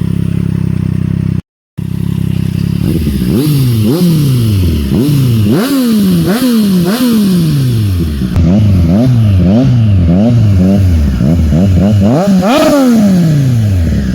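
Triumph Street Triple RS 765's inline three-cylinder engine, breathing through an SC-Project SC1-R exhaust with the dB-killer removed. It idles, cuts out briefly at an edit, then is revved in about a dozen quick throttle blips. Each blip rises sharply and falls back, the biggest near the end, before it returns to idle.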